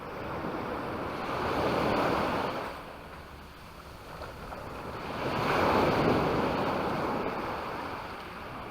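Waves breaking on the shore: two swells of surf, the first peaking about two seconds in and the second, slightly louder, about four seconds later.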